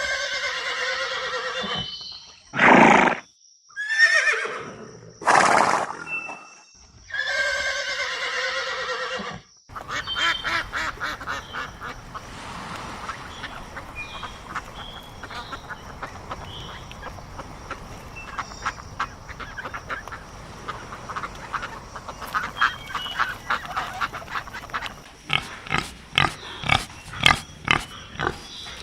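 Animal calls: several long, loud pitched calls in the first ten seconds, then a cut to a quieter stretch of rustling and clicking, ending in a run of short sharp sounds.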